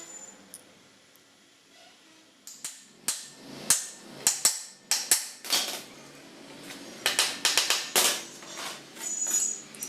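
A run of sharp, irregular knocks and clanks of tools on metal engine parts, starting a couple of seconds in and coming in quick clusters near the end.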